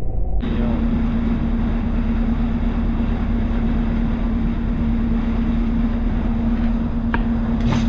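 A boat's engine running steadily, with a constant droning tone over low rumble and wind on the microphone. The sound cuts in abruptly just after the start, and a couple of faint clicks come near the end.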